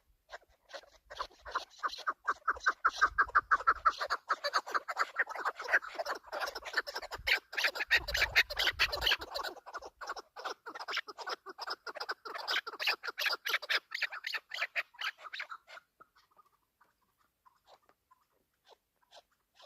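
Chukar partridge calling: a long, fast run of short repeated notes that dies away near the end.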